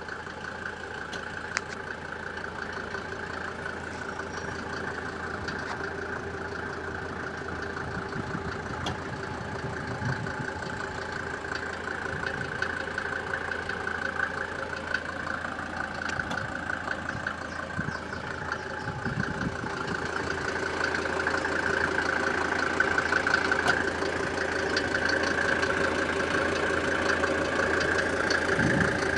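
Mercedes-Benz SLS AMG's 6.2-litre V8 running at idle with a rapid knocking sound, a fault the owner cannot explain. It grows louder about two-thirds of the way through.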